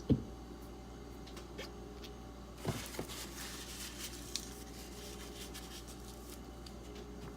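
Benchmade Griptilian knife with D2 steel being worked on a leather strop loaded with 0.25 micron diamond: a sharp knock just after the start, two soft knocks a little under three seconds in, then a faint swishing as the blade is drawn across the leather.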